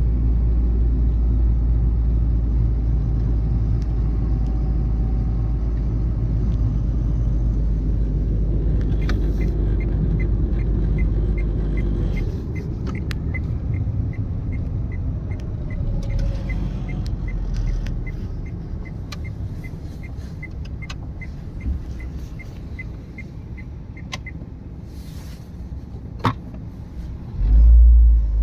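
Renault Twingo engine and road rumble heard from inside the car, easing off as the car slows. A steady ticking runs through the middle at about two to three a second, typical of the turn-signal relay, and there are a few sharp clicks and a loud thump near the end.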